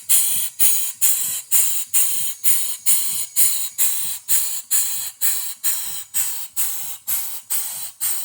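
1/2 hp G. Sipp single-cylinder live steam engine running under steam, its exhaust puffing in a steady rhythm of about two sharp hissing chuffs a second. The engine is still breaking in after a rebuild with new parts.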